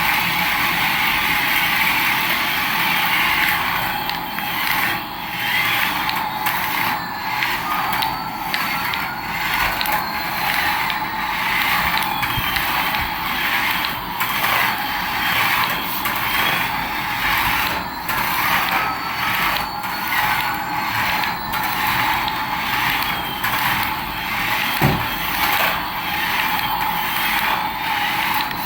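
A battery-powered toy running: its small geared motor whirs with steady clicking about once a second, over a faint rising electronic tone that repeats every few seconds.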